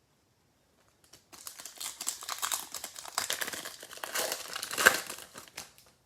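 Wrapper of a trading-card pack crinkling as it is torn open and handled, starting about a second in and loudest near the end.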